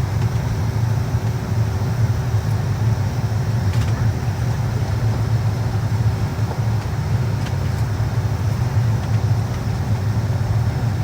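Steady low rumble inside a Boeing 757-200 cabin, the airliner's air-conditioning and ventilation running while it waits before departure, with a faint steady hum and a couple of light ticks.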